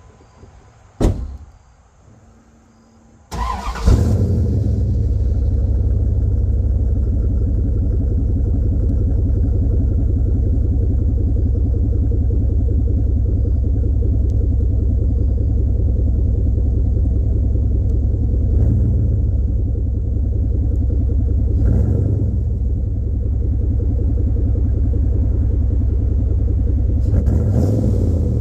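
A warm 360 Magnum (5.9-litre) V8 cranks and starts a few seconds in after a sharp click, then idles steadily. The idle is broken by three short blips of the throttle.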